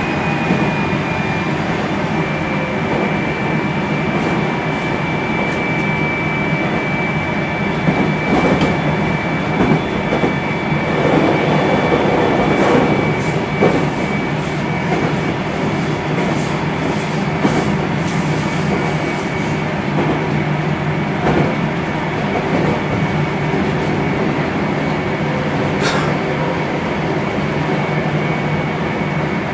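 JR Central 373 series electric multiple unit running on the line: a steady rumble of wheels on track with a high, even whine. In the middle comes a stretch of clattering and knocking, and there is one sharp click near the end.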